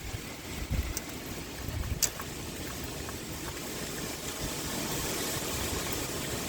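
Steady rain falling, with wind gusting in low rumbles underneath. Sharp single drips click about one and two seconds in.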